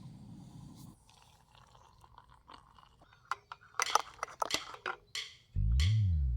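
Crisp food being crunched and chewed in a few short bites, followed near the end by a loud, low swooping tone.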